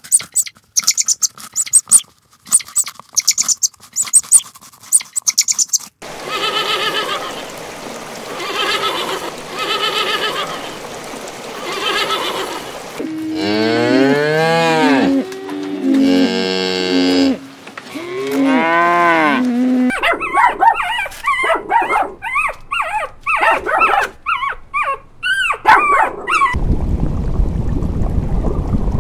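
Cows mooing: several long calls that bend up and down in pitch in the middle stretch. Before them come quick crunching clicks of rabbits chewing hay; after them, a run of shorter, higher calls, and near the end a steady rush of aquarium water.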